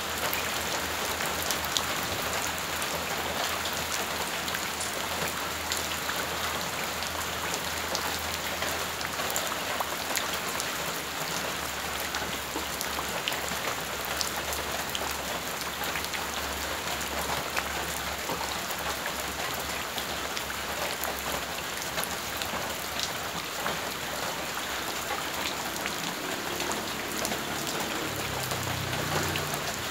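Steady rain falling on wet ground and puddles: an even hiss full of the small splashes of individual drops.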